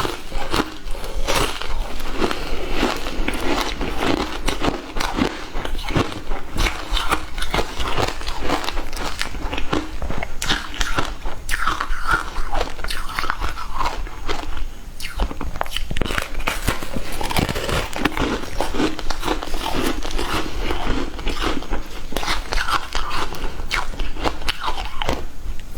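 A person biting and chewing frozen matcha ice, heard close-up: a steady stream of crunches and sharp cracks as the ice breaks between the teeth.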